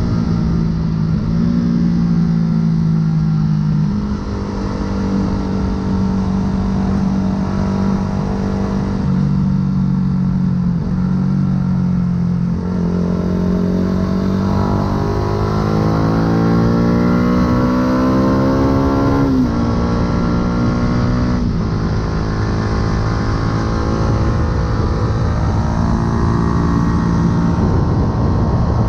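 Yamaha YZF-R125's single-cylinder four-stroke engine through an aftermarket full exhaust, heard from the bike while riding. It runs at steady speed with a few small steps in pitch, then rises steadily in pitch for about six seconds past the middle before dropping sharply, as on a gear change or closing the throttle.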